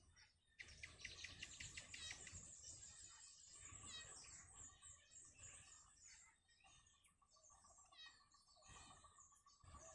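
Faint wild birds chirping and calling, several overlapping: a fast run of chirps about a second in, and short trills around four and eight seconds in.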